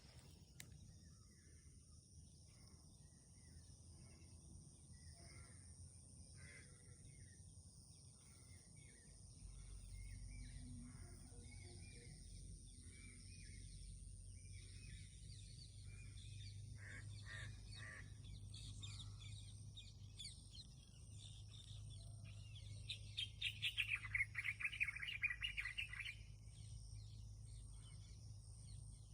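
Birds chirping in short scattered calls over a steady high thin whine. About 23 seconds in, a louder, rapid run of chirps lasts about three seconds.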